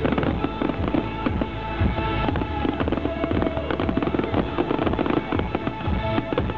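Fireworks going off in quick succession, dense bangs and crackles, over loud music playing along with the display.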